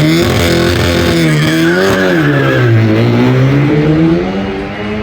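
Car engine running hard under acceleration, its pitch rising and dropping several times.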